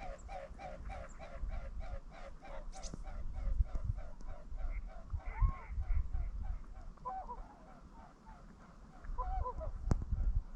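Swans in flight, their wingbeats throbbing in a steady rhythm of about three to four beats a second that fades out about seven seconds in. A few short calls come near the middle and near the end, over a low rumble of wind on the microphone.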